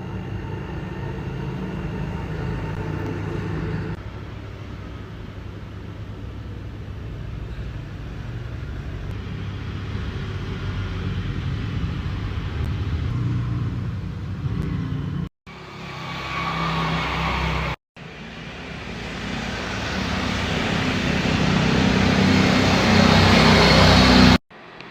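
Road traffic noise from cars and motorcycles: a steady low engine rumble, then a vehicle growing steadily louder towards the end. The sound breaks off abruptly for an instant three times.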